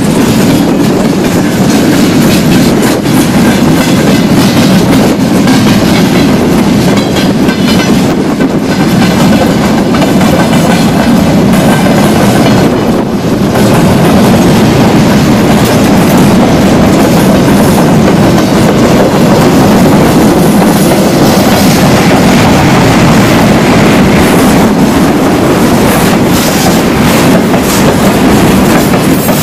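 Freight train wagons rolling past close by: a loud, steady rumble of steel wheels on the rails with clickety-clack over the rail joints. The sound dips briefly about thirteen seconds in.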